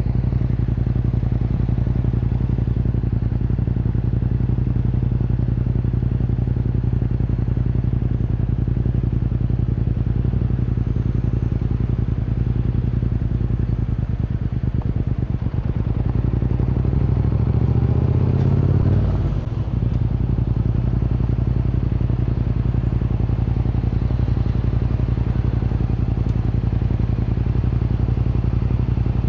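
Yamaha MT-07's parallel-twin engine running through an Akrapovic Racing Line exhaust, holding steady revs. About two-thirds through, the exhaust note climbs in pitch, then drops off sharply, as when the throttle is opened and then shut or a gear is changed.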